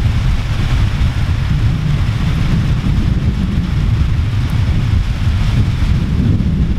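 Steady rain falling, with wind buffeting the microphone as a loud, uneven low rumble.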